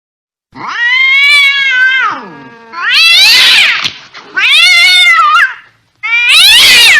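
Cat yowling angrily: four long drawn-out wails in a row, each rising and then falling in pitch, starting about half a second in.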